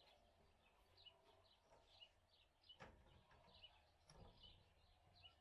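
Near silence, with a small bird chirping faintly over and over, about twice a second. A single click comes about three seconds in and a soft knock just after four seconds.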